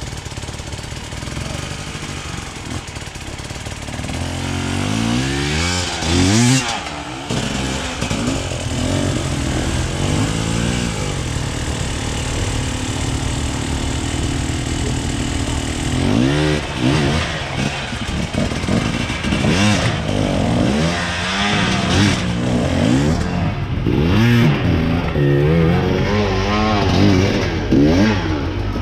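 Motorcycle engine being revved up and down over and over, its pitch rising and falling in quick sweeps, with steadier running near the start and in the middle.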